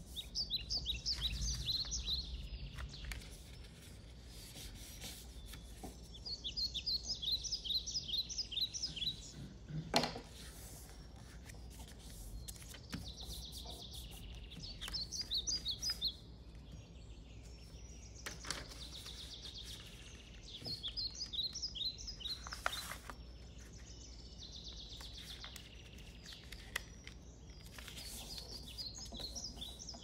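A bird singing in bursts of rapid, high chirps that come back every several seconds. Between them, paper is crinkled and creased on a tabletop as it is folded, with a few sharp taps.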